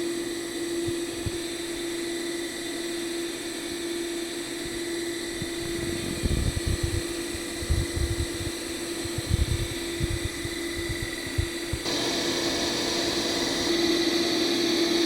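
Electric motor and repaired Mitsubishi A-500 inverter drive running on a test, with a steady hum and a high whine from the drive. The whine grows louder about twelve seconds in, and scattered dull knocks come in the middle.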